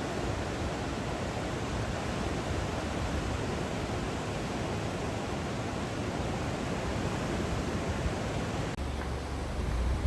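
Ocean surf heard from above, a steady rushing wash of breaking waves. Near the end it gives way abruptly to a low rumble of wind on the microphone.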